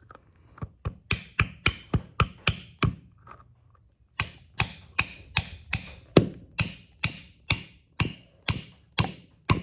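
Hammer blows on a bent sheet-metal piece, flattening it back out: a steady run of sharp metallic strikes, about two to three a second, with a short pause a third of the way in.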